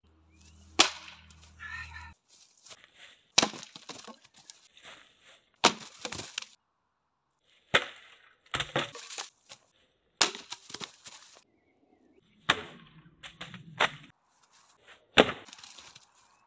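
Dry deadwood branches snapping under karate hand and foot strikes: about nine sharp cracks spaced a second or two apart, each followed by a brief splintering crackle.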